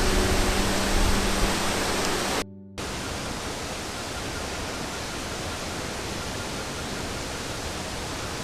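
Steady rushing roar of the Ekom Nkam waterfall, an even wash of falling water. A held music chord fades out under it in the first two seconds. The sound drops out for a moment about two and a half seconds in, then the rush carries on unchanged.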